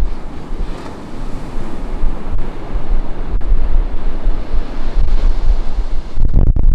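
Ocean surf breaking and washing up a sandy beach in a continuous hiss that swells and recedes. Wind buffets the camera's microphone in low rumbling gusts throughout, with the strongest gust near the end.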